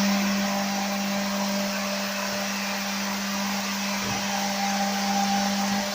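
CEHISA P-307 automatic edgebander running with its corner-rounding unit just switched on: a steady motor hum with a strong low tone and a hiss of air over it. The low tone drops out near the end.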